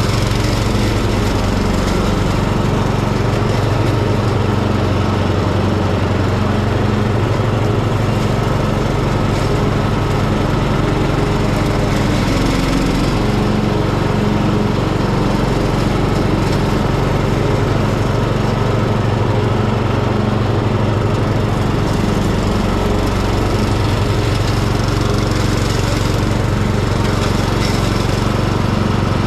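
Hecht ride-on garden tractor mowing tall, thick grass: its engine runs steadily with the mower deck blades spinning, and the engine note dips slightly a few times.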